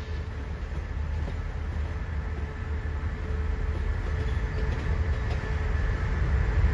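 Diesel-hauled express passenger train pulling out at low speed, a steady low rumble of engine and carriages that grows louder toward the end.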